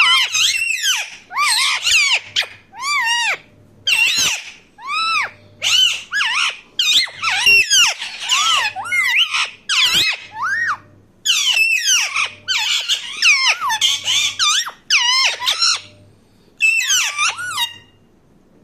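Parakeet giving a rapid series of shrill, squeaky calls, each a short arching screech, with short pauses about 11 and 16 seconds in.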